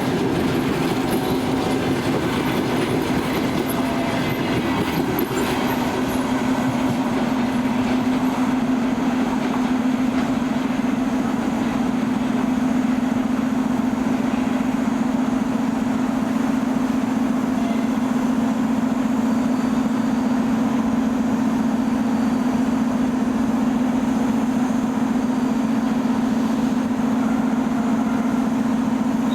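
A train running along the track, with a steady low hum that grows stronger about a third of the way in.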